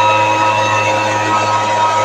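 Engine-driven leaf blower running steadily at a constant pitch, a loud continuous whine over rushing air.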